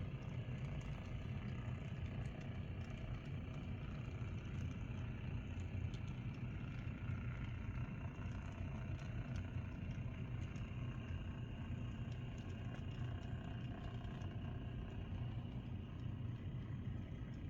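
N scale model locomotive on an Atlas VO-1000 mechanism running along the track: a steady motor and gear hum with scattered light ticks from the wheels on the rails.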